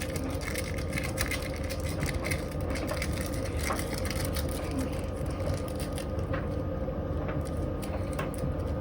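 Washing machine running with a stone loaded in the drum: a steady motor hum overlaid by irregular knocks and rattles as the stone is thrown about.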